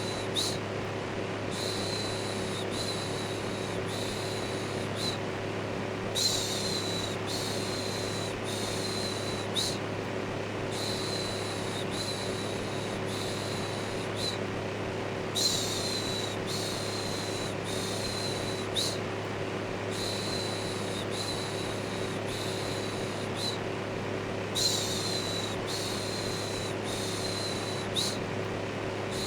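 Electric fan running with a steady hum and whoosh, layered with a looped human "shhh" shushing sound repeating about once a second, with a brief break every four to five seconds. White noise for settling a baby to sleep.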